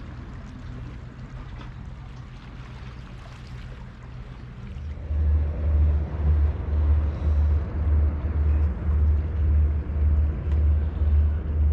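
A boat's engine running with a loud low throb that pulses regularly about twice a second, starting about five seconds in, over a steady hiss of wind and water.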